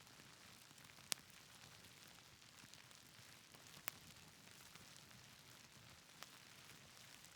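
Faint, steady hiss of rain with the occasional sharp pop of a wood fire crackling, the loudest pop about a second in.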